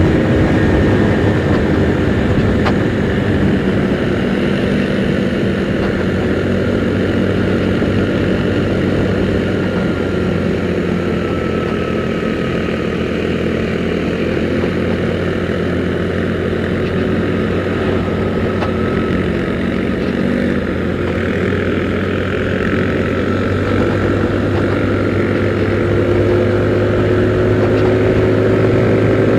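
Kymco Super 8 scooter engine running steadily under way, its note climbing near the end as it speeds up, with wind noise, heard from a camera inside the rider's helmet.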